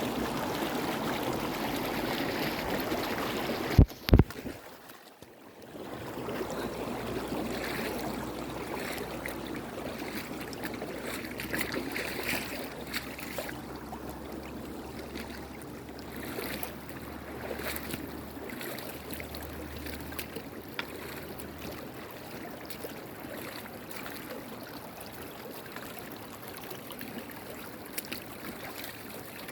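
Stream water running in a steady rush. About four seconds in, two sharp clicks and a brief drop, after which the flow continues more quietly.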